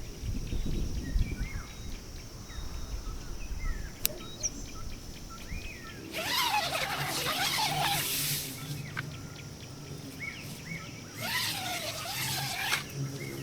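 Outdoor hillside ambience: small birds chirping and a steady high insect drone, with wind rumbling on the microphone for the first few seconds. Twice, about six and eleven seconds in, louder noisy bursts of calling stand out, and a faint low hum sets in after about six seconds.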